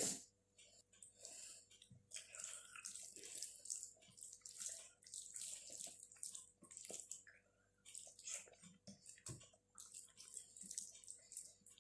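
Close-up wet chewing and lip-smacking of someone eating soft, saucy food (palak paneer with rice), in quick irregular smacks, with a couple of louder knocks at the start and about nine seconds in.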